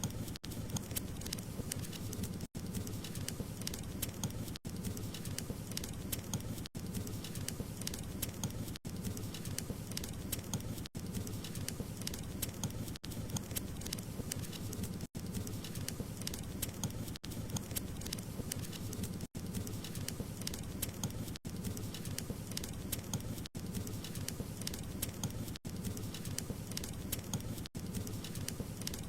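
Burning wood crackling in a fireplace: a dense, steady patter of small pops and snaps over a low rumble of flames. The sound cuts out very briefly about every two seconds.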